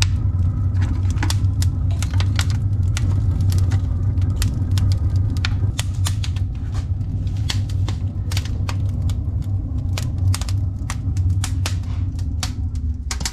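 Firewood crackling in a cast-iron sauna stove, with irregular sharp pops over a steady low rumble.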